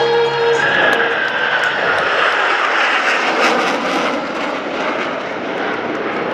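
Jet aircraft passing, a Blue Angels Boeing F/A-18 Super Hornet, its engines' roar sweeping in with a falling whine about a second in, then a steady rumble. Music is heard ending in the first half second.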